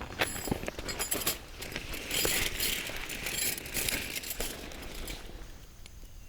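A run of small clicks, clinks and rattles, like camp gear being handled, with a stretch of rustling in the middle.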